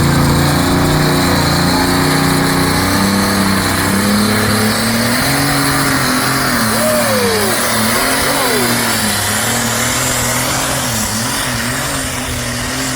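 A truck engine running hard and revving, its pitch stepping and wavering up and down, with a few short higher-pitched glides about halfway through.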